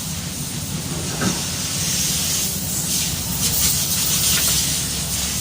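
A steady low machine hum with a hiss of rushing air over it that swells and eases.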